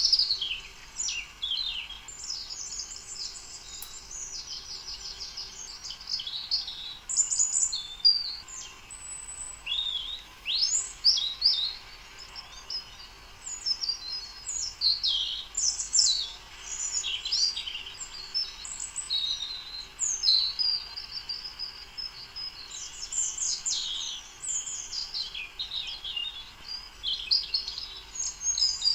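Songbirds singing and chirping without a break, many short overlapping calls and trills.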